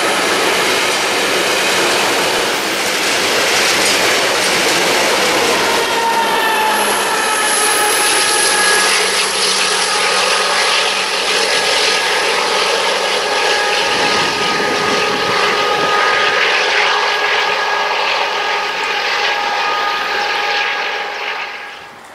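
A long freight train of hopper wagons rolling past, a steady rumble and rattle of wheels on the track with several high, sustained squealing tones over it. The sound drops away sharply near the end.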